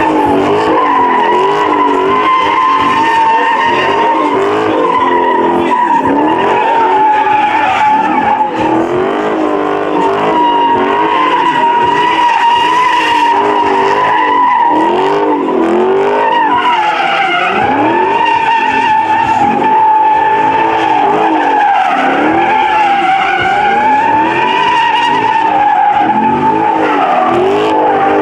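Car doing a long burnout: the tires squeal in one continuous, wavering high screech while the engine revs up and falls back again and again underneath it.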